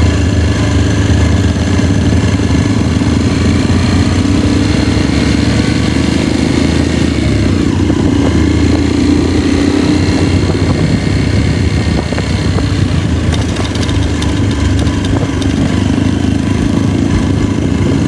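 Motorcycle engine running steadily while riding, with a loud rush of wind and road noise.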